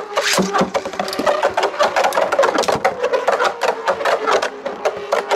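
Two plastic Beyblade spinning tops (Tornado Pegasus) spinning and clashing in a plastic battle stadium: rapid, irregular clicking and rattling over a steady spinning hum.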